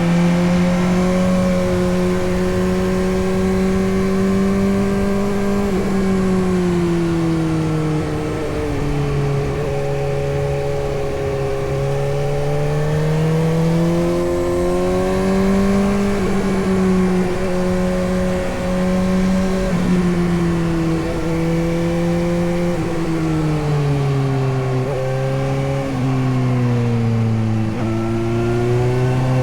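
Suzuki GSX-S750's inline-four engine running under way, its pitch rising and falling every few seconds as the throttle is opened and closed.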